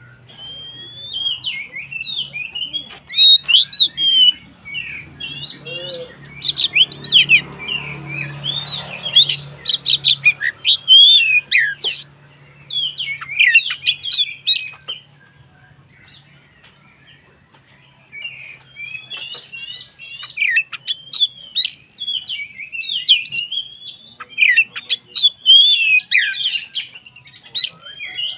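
Oriental magpie-robin (kacer) singing in full voice: rapid, varied whistles, chirps and sharp clicking notes. The song breaks off for a few seconds about halfway through, then starts again. A faint low hum runs underneath.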